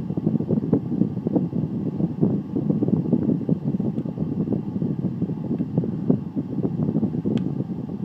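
A 2002 Lennox central air conditioner running, heard as a steady, fluttering rush of air that buffets the microphone. There is a small click near the end.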